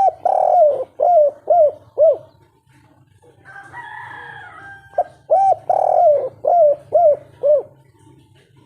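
Spotted dove cooing two song phrases of the 'kuk 3' type, each a long coo followed by three short, evenly spaced coos. Between the phrases, a fainter, higher-pitched call from another bird, over a steady low hum.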